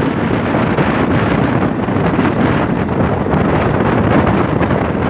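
Passenger train running at speed, its steady rumble mixed with a strong rush of wind on the microphone held out by the carriage window.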